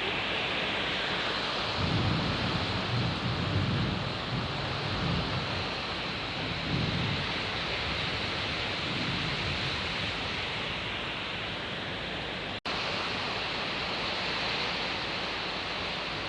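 Steady heavy rain with thunder rumbling low and rolling from about two to seven seconds in.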